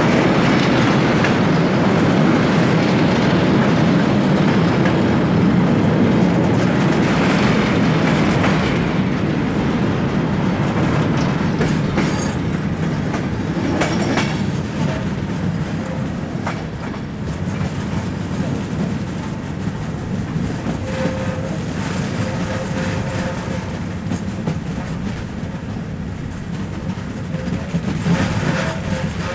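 Passenger train running on the rails: a steady rumble of wheels on track, with scattered clicks from rail joints. The rumble eases a little in loudness after about ten seconds.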